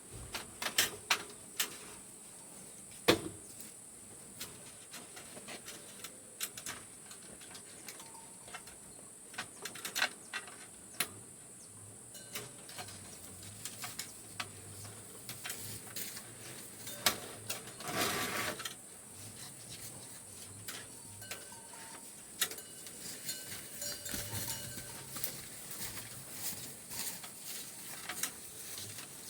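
Steady high-pitched drone of crickets, with scattered sharp snaps and knocks and a longer rustling noise about eighteen seconds in.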